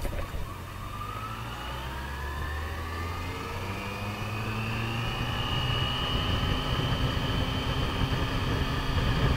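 Yamaha FJR1300 motorcycle's inline-four engine pulling away and gaining speed. Its note rises for the first few seconds, then holds steady, while rushing wind noise builds.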